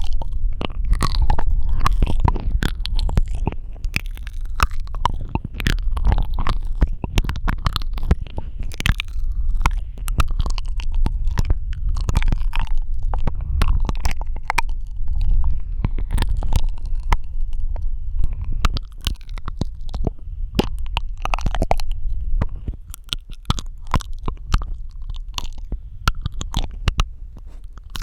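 Close-miked ASMR mouth sounds: a dense, irregular run of wet clicks and smacks over a constant low rumble.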